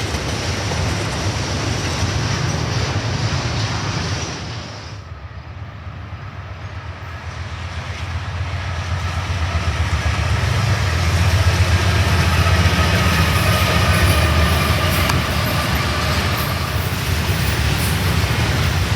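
Norfolk Southern freight train passing close by: a steady rolling rumble of the train, with a sudden dip about four and a half seconds in before it builds back up. Faint thin squealing tones, typical of wheel flanges on the rail, run through the second half.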